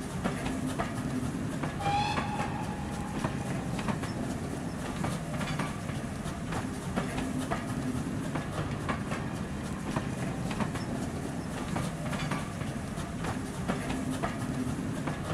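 A train passing, with wheels clicking over the rail joints in a steady clickety-clack over a continuous rumble. A short high-pitched tone sounds about two seconds in.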